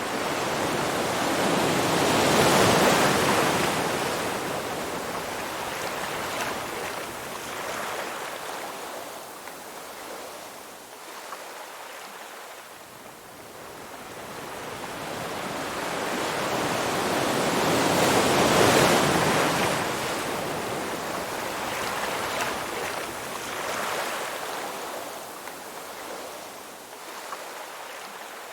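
Ocean waves breaking in a slow rhythm, swelling to a loud surge about three seconds in and again a little past halfway, and ebbing to a softer hiss between the breakers.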